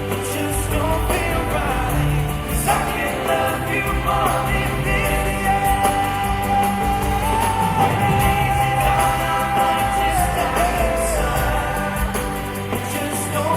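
Live pop ballad played by a band in an arena, with male singing. About halfway through, one long note is held for several seconds over the band's chords.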